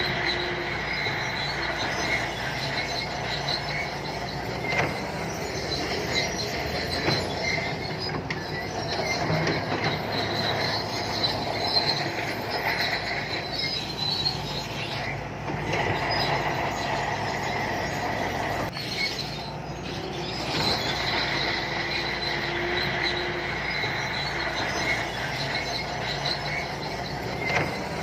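SANTUI crawler bulldozer working under load, its diesel engine running steadily while its steel tracks give a continuous high squeal and clank.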